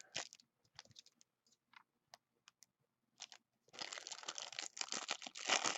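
Foil wrapper of a trading-card pack handled with a few light clicks and rustles, then torn open and crinkled continuously from a little under four seconds in.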